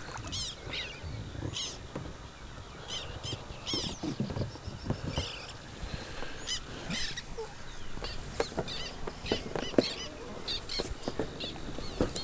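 Lakeside chorus: birds chirping in many short, high, repeated calls, with frogs croaking lower down and a few sharp knocks.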